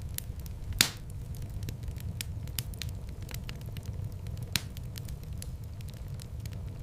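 Fireplace fire crackling with frequent small pops over a low steady rumble, with a sharper, louder pop about a second in and another past the middle.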